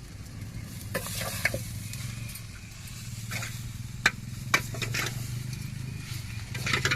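Spoon stirring and scraping crumbled fish puttu in a frying pan, with a light sizzle and scattered sharp clicks of the spoon against the pan over a steady low hum.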